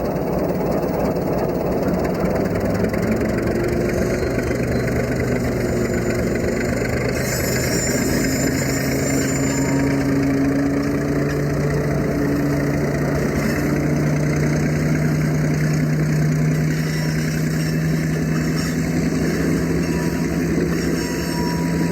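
Old Baldwin diesel switcher locomotive's engine running under load, its steady drone slowly rising in pitch as it pulls away. From a few seconds in, a light high clatter joins it.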